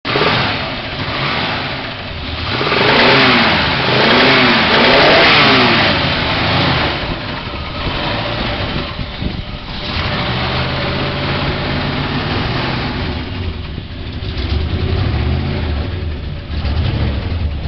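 A 1972 Chevelle SS's original, never-rebuilt 454 big-block V8 running. It is revved three times in quick succession a few seconds in, then settles to a steady idle.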